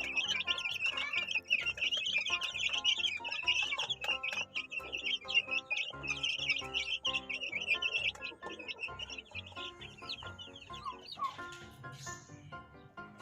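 A flock of small birds chirping densely and continuously over background music; the chirping thins out after about nine seconds.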